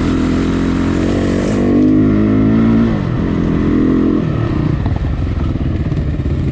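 Off-road motorcycle engine running loud under throttle. It revs up about a second and a half in, holds, and drops back around three seconds, then rises and falls again briefly before settling to a rougher, lower running.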